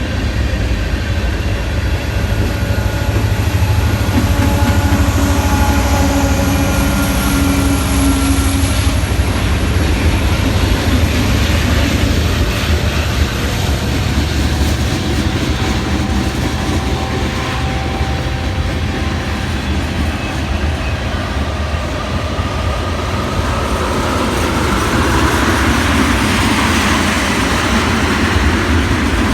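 Norfolk Southern freight train passing, with a steady low diesel rumble that is strongest in the first half and a hiss of rolling wheels that swells near the end.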